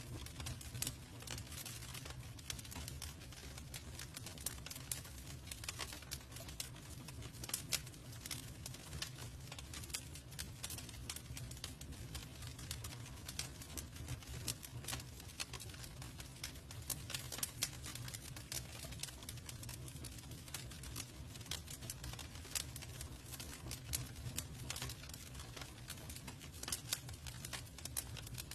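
Wood campfire burning: irregular sharp crackles and pops, some louder than others, over a steady low rumble.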